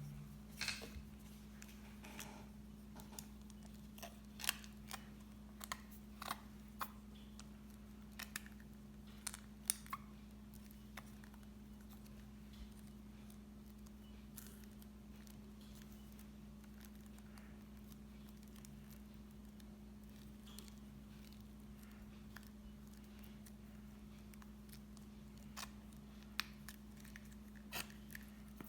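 Scattered light clicks and taps of small objects being handled, bunched in the first ten seconds and again near the end, over a steady low hum.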